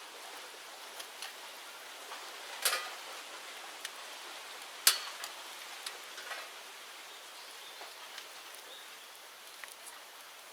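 Bonfire of cleared bamboo-grove debris burning with a steady hiss and light crackling, broken by two sharp pops: one about a third of the way in and a louder one near the middle.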